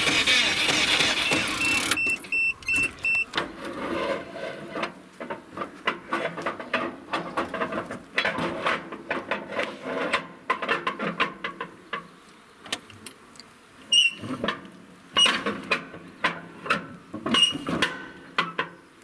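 UAZ being cranked on its starter with a booster pack connected: the cranking noise stops abruptly about two seconds in, without the engine catching. A booster pack then beeps several times in quick succession, followed by irregular clicks and knocks.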